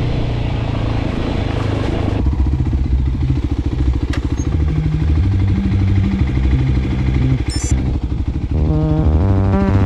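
Voge 300 Rally motorcycle's single-cylinder engine running, with a fast, even pulsing.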